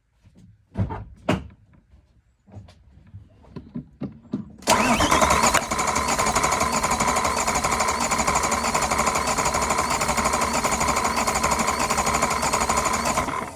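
BMW S65 V8 turning over on the starter with its fuel injectors unplugged, cranking steadily for about nine seconds without firing during a compression test, then stopping. A few scattered knocks and clicks come before the cranking starts.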